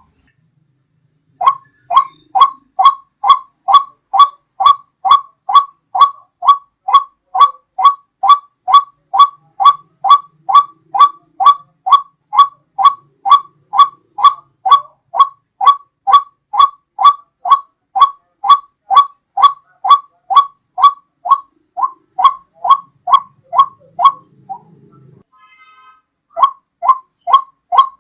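White-breasted waterhen (ruak-ruak) calling, a lure recording: short pitched notes repeated steadily, about two to three a second, in a long run that breaks off about 24 seconds in and starts again near the end.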